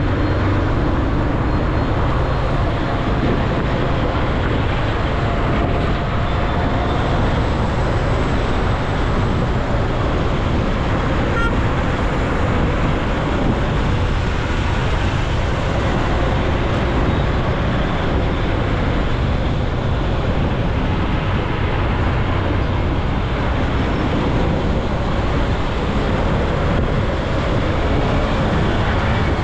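Steady, even road noise of a motorcycle riding through city traffic: engine, tyres and wind mixed with the sound of the surrounding vehicles.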